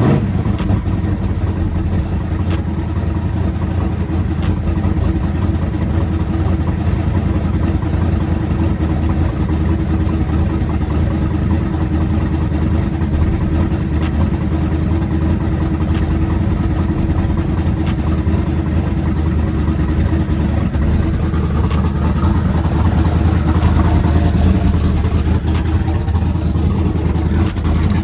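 Twin-turbo, carbureted small-block Chevy V8 idling steadily, with a slight rise in revs about three-quarters of the way through. The owner suspects a small exhaust leak at a header clamp.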